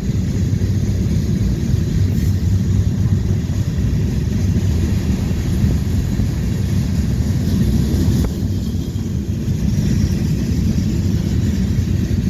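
Steady low vehicle rumble heard from inside a car.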